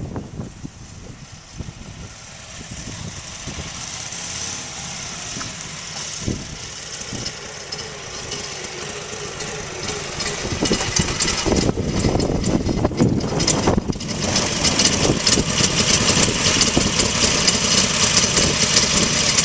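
1941 Harley-Davidson EL Knucklehead's overhead-valve V-twin engine running, its firing pulses growing gradually louder and loudest in the second half.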